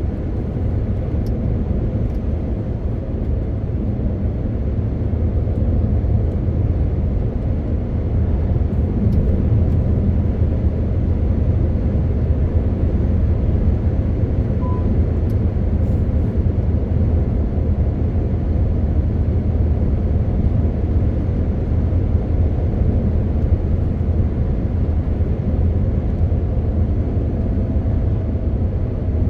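MAN TGX 18.520 truck's inline-six diesel engine running steadily under way, with tyre and road noise. There is a short beep about fifteen seconds in.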